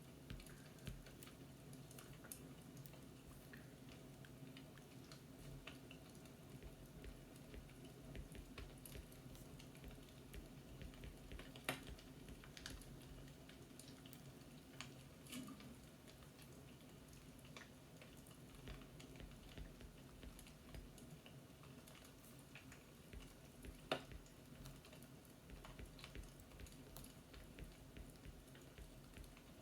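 Faint fireplace crackling: a soft steady background with scattered small pops and ticks, two sharper pops about twelve and twenty-four seconds in.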